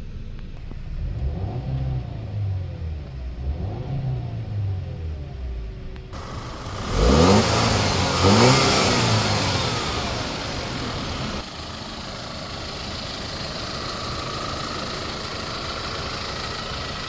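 2009 Audi A4 Quattro's TFSI turbocharged engine being revved several times, the two sharpest revs about seven and eight seconds in, then settling to a steady idle.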